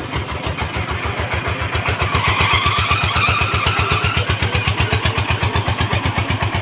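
An engine running steadily with a rapid, even low chug of about ten beats a second, with extra higher-pitched clatter for a couple of seconds in the middle.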